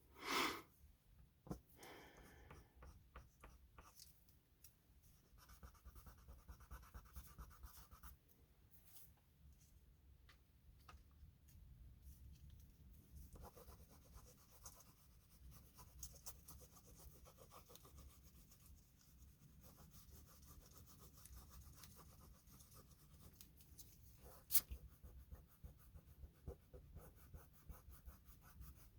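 Faint scratching and rubbing of oil pastels on drawing paper as colour is laid down and blended, in irregular strokes. A short louder sound comes just after the start, and a single sharp click about 24 seconds in.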